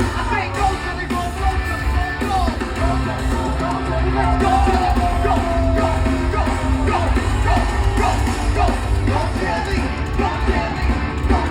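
Loud live rock music with heavy bass, a voice singing and yelling over the band.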